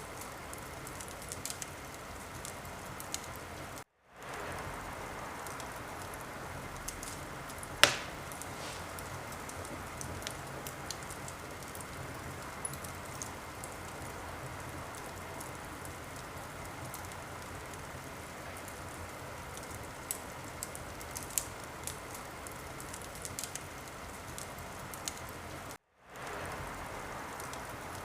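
Fireplace fire crackling over a steady hiss, with scattered small pops and one sharp, loud pop about eight seconds in. The sound cuts out briefly twice and fades back in.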